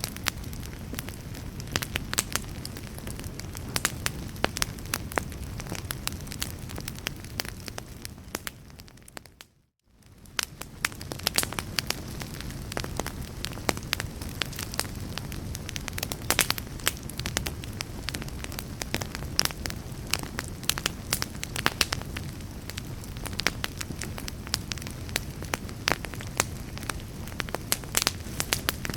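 Fireplace fire crackling, with frequent sharp pops over a low steady rumble. About ten seconds in the sound fades out to near silence for a moment and fades back in.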